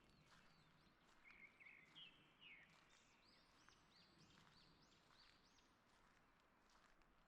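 Faint morning birdsong: several songbirds chirping, with a quick run of short repeated high chirps and a brief warbled phrase. Soft footsteps sound now and then on a forest path.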